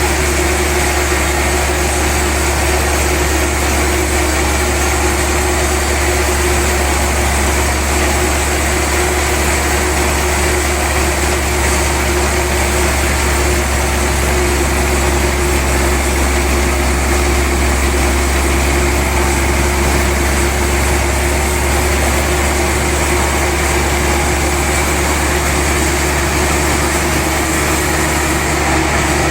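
Sawmill machinery running steadily and loudly through a big log-sawing session: a constant low hum under a steady mid tone and a wide even rush of noise, without pause or change.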